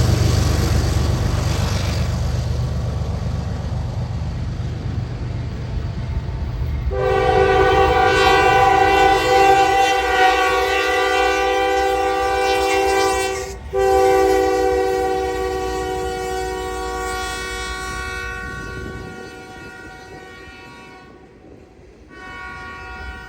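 A passing train rumbling and fading away, then a diesel locomotive's multi-chime air horn sounding a long blast about seven seconds in, breaking off briefly, and sounding again in a second long blast that slowly fades. A short horn blast comes near the end.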